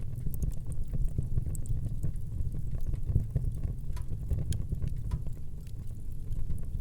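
Fireplace fire burning: a steady low rumble of flames with scattered small crackles and pops throughout.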